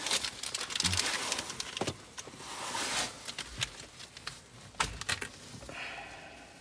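Crinkling of plastic packaging and small clicks and knocks of parts being handled, busy for the first two seconds and then sparser, with a couple of sharp clicks about five seconds in.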